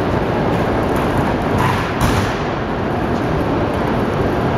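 Steady rumble of Shinkansen trains on a station platform as the Akita Shinkansen Super Komachi creeps in to couple with the standing Tohoku Shinkansen Hayabusa, with one brief sharp knock about two seconds in.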